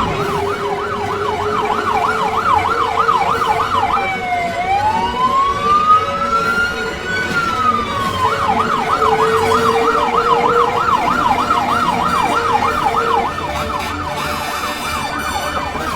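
Fire truck siren sounding: a fast yelp of about three rises and falls a second, which switches to one slow wail that climbs and falls back, then returns to the fast yelp and stops a few seconds before the end.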